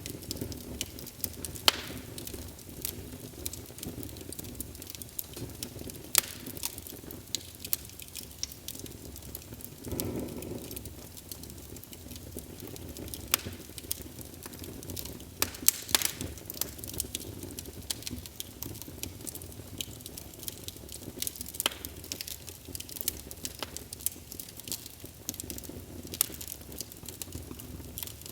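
Wood fire in a fireplace burning with a steady low rumble and frequent sharp crackles and pops, with a short, louder whoosh of flame about ten seconds in.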